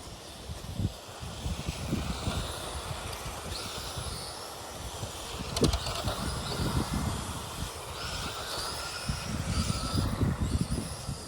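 Radio-controlled Tamiya model race trucks racing, their electric motors whining in pitches that rise and fall as they accelerate and slow, over an uneven low rumble. A sharp click a little past halfway.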